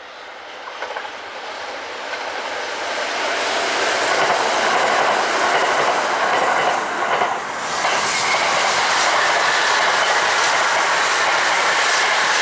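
Kintetsu electric train passing at speed, growing louder over the first few seconds as it approaches and then running loud and steady past, with wheels clattering over the rail joints through the second half.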